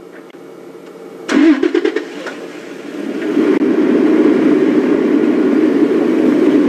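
Game-drive vehicle's engine starting with a brief burst of clicks about a second in. It then runs and grows louder as the vehicle pulls away, a steady low drone from about halfway through.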